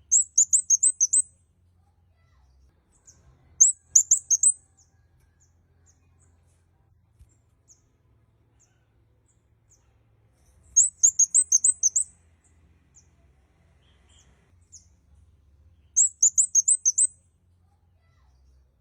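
Kemade kepala merah (red-headed kemade) bird singing: four short runs of rapid, very high chirps, each of about half a dozen notes, with faint single chirps in between.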